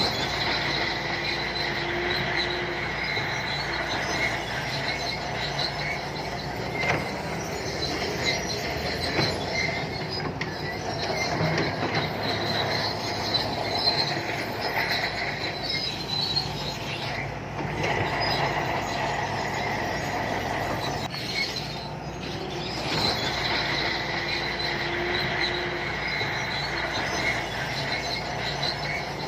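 Santui crawler bulldozer at work: its diesel engine running steadily while the steel tracks give a high metallic squeal that comes and goes.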